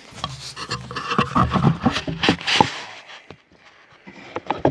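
Handling noise of shop gear being moved and set up: a run of knocks, clicks and scrapes for about three seconds, then a few sharp clicks near the end. No power tool is running.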